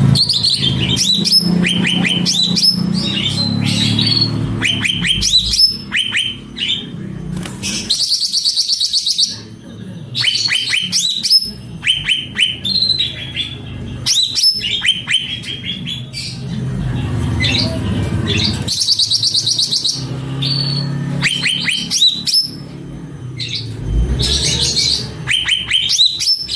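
Cucak ranting songbird singing persistently: repeated runs of quick, falling chirps, broken three times by a fast, high trill. A low steady hum runs beneath the song.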